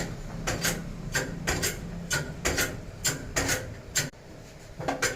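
Sharp metallic clicks and taps, irregular, about two or three a second, from work on a tractor's side housing at a press. A low steady hum underneath fades out about two seconds in.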